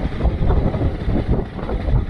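Motorcycle engine running at low speed, largely covered by wind buffeting the action camera's microphone in irregular low gusts.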